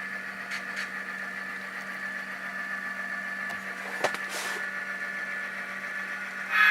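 Tsunami sound decoders in a pair of HO-scale Proto 2000 BL2 diesel models playing a steady diesel engine sound through their small onboard speakers, with a single click about four seconds in. A horn sound starts right at the end, which is not the right horn for these engines.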